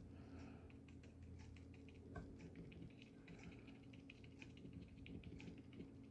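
Faint, quick taps of a paintbrush dabbing gouache onto paper, irregular and several a second, over a low steady hum.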